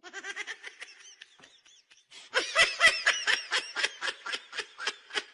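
A person laughing in a quick run of high-pitched bursts, about four or five a second, soft at first and much louder from about two seconds in.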